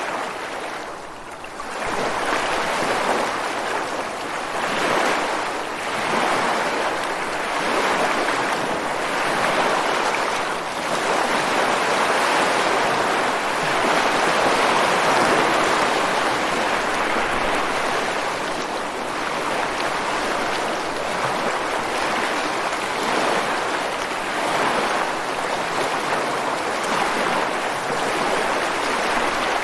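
Ocean waves breaking and washing over rocks on the shore: a continuous rush of surf that swells and eases every few seconds, with a brief lull about a second in before a wave surges in.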